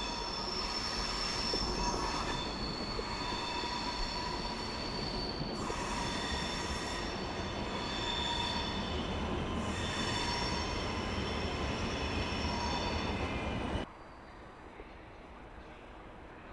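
Train wheels squealing as a train rolls slowly over curved station track, several high steady tones shifting in pitch over a low rumble. The squeal cuts off abruptly near the end.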